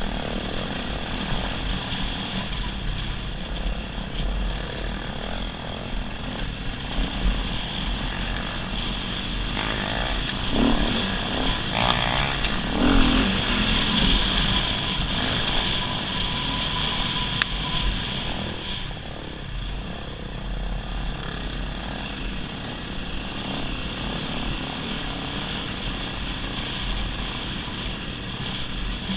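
Dirt bike engine running during trail riding, a steady drone with the engine revving up briefly about ten to thirteen seconds in.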